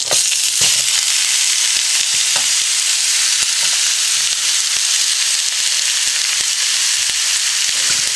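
Frozen mixed vegetables dropped into hot oil in a cast iron wok: sizzling that jumps up suddenly as they land and then runs on steadily as the moisture flashes to steam. A few scrapes and taps from a metal spoon stirring against the wok.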